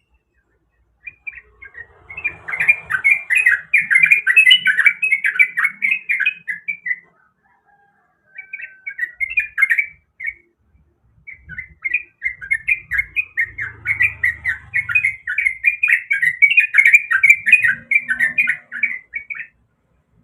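A trucuk (yellow-vented bulbul) singing in three bouts of fast, bubbly, chattering phrases, with short gaps between them.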